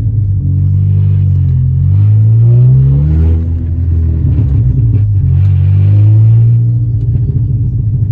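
Stage 3 tuned Volkswagen Golf R's turbocharged 2.0-litre four-cylinder running loud under acceleration. Its note climbs in pitch and drops back several times as it revs and changes gear.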